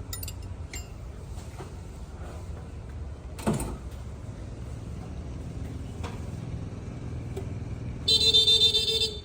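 Wheel loader's diesel engine running with a steady low rumble. A brief loud sound falling in pitch comes about three and a half seconds in, and a horn blares for about a second near the end.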